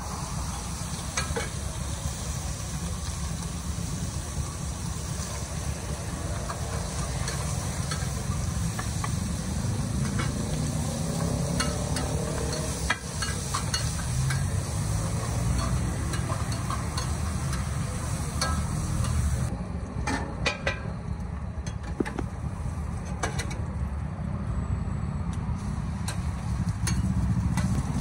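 Shrimp and squid sizzling in oil on a wide flat griddle. Metal spatulas scrape and clack against the pan as they stir, giving many sharp clicks over a steady low rumble.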